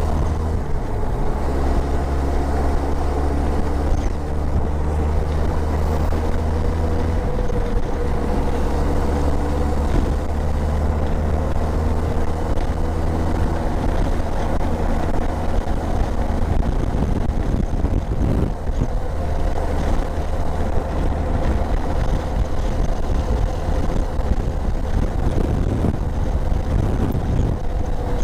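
Motorcycle engine running at a steady cruising speed on the highway, with wind and road noise over it; the engine note shifts slightly a few times.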